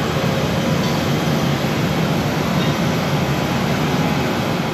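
Steady, loud, low rumbling noise with no distinct tones.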